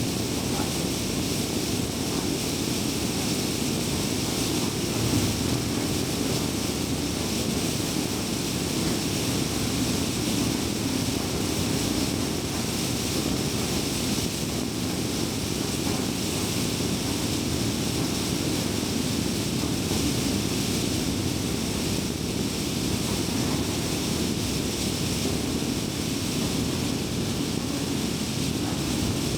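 Car driving on a highway: a steady rush of tyre and road noise with a low hum, even throughout with no sudden events.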